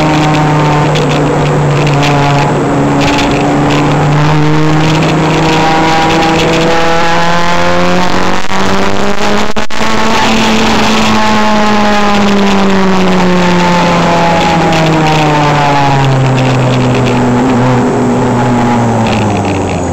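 A car engine running hard at speed, over road and wind noise. Its pitch climbs slowly to a peak about halfway through, then sinks gradually and drops away quickly right at the end.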